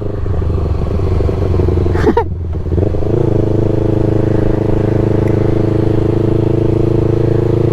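Motorcycle engine running steadily under way. About two seconds in the note breaks briefly, then settles into an even, steady drone.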